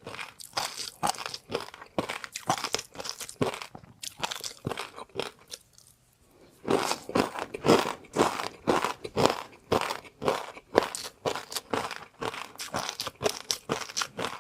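Close-miked eating: crunchy food bitten and chewed in quick, crisp crunches, with a pause of about a second near the middle before the chewing resumes louder.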